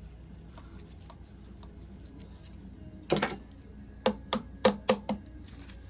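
Hand tools knocking on metal engine parts during a strip-down: one sharp clank about three seconds in, then five quick, sharp metal taps about a second later.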